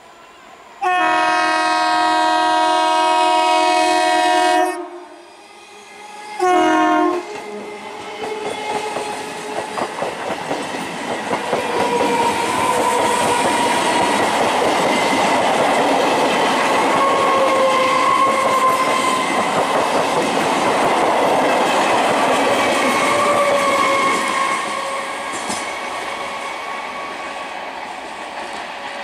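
Electric multiple unit (EMU) local train sounding its horn in one long blast and then a short one. The train then passes at speed, its wheels clattering over the rail joints, with the noise fading near the end.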